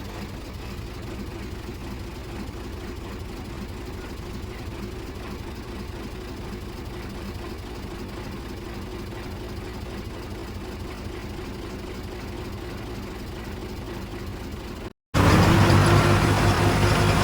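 Heavy diesel engine of earthmoving machinery running steadily. After a brief cut about fifteen seconds in, a louder engine comes in, its pitch slowly rising.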